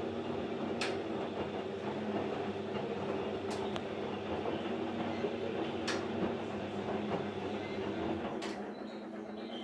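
AEG Lavamat 804 washing machine partway through a 35 °C cotton/coloured wash: the drum motor hums steadily as the drum turns, with a sharp click every two to three seconds. The low rumble fades about eight and a half seconds in.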